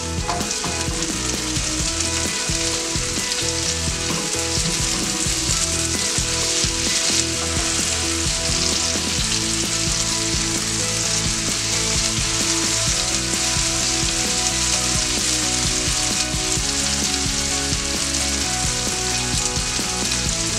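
Diced tomatoes, onion and garlic sizzling steadily in hot oil in a nonstick frying pan while being stirred with a silicone spatula.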